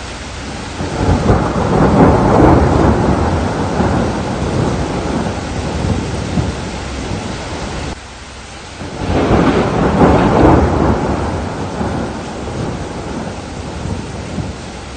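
Two long rolls of thunder over steady rain. The first builds about a second in and fades, then stops abruptly about halfway through; the second swells soon after and dies away slowly.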